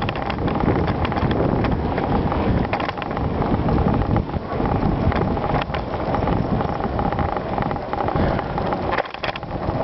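Bicycle being ridden over a gravel trail: tyres rolling on loose gravel and the bike rattling and clicking over bumps, with wind buffeting the microphone.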